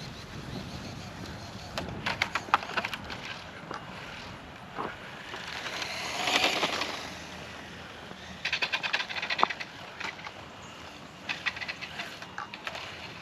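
X-Rider Mars 1/8-scale RC motorcycle making a run, its motor whirring up and back down about six seconds in. Several bursts of rapid clicking and rattling come before and after the run.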